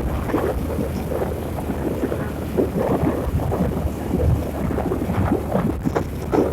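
Wind buffeting the microphone of a moving vehicle, in uneven gusts over a steady low engine hum.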